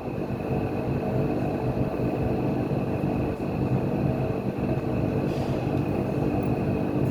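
An engine or motor running steadily, a constant drone with a faint steady high whine over it.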